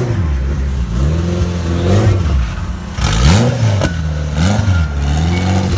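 Car engine revved in a series of blips, its pitch rising and falling back several times, with a sharp crack about four seconds in.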